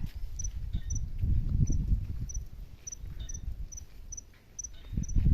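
Cricket chirping, short high double chirps about twice a second, over a low rumble.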